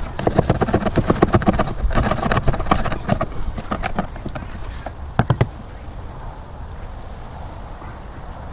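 Rapid strokes of hand tools working the boat hull's old paint: dense scraping and clicking for the first three seconds or so, a few sharp knocks about five seconds in, then quieter.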